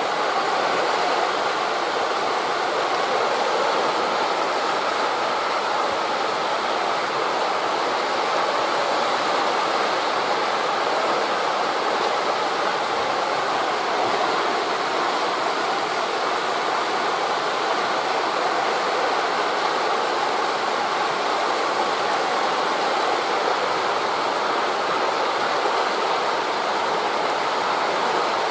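Wind rushing through forest leaves blended with waves washing on a beach, a steady, even rushing noise with no clear swells or breaks.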